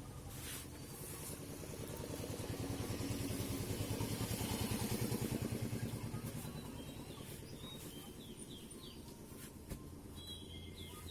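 A motor vehicle's engine passing by: it swells to its loudest about halfway through, then fades away. Birds chirp faintly near the end.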